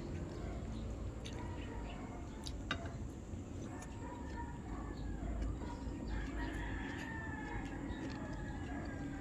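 Rooster crowing, with a long drawn-out crow starting about six seconds in, and hens clucking; a few light clicks.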